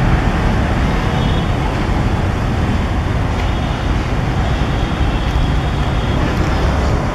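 Steady low rumble of a diesel-hauled passenger train on the line, heard from the lineside.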